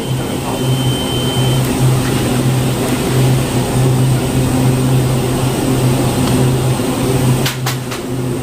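Train running, a loud steady low hum with rumble. A brief high tone sounds about a second in, and a few short clicks come near the end.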